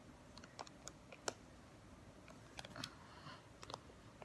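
Faint, scattered small clicks and a brief soft rustle, with one sharper click about a second in: small plastic items being handled by hand.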